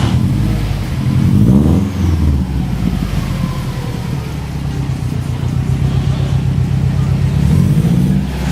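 Subaru WRX turbocharged flat-four idling through an aftermarket exhaust, revved twice: a quick rise and fall in pitch about a second in and another near the end.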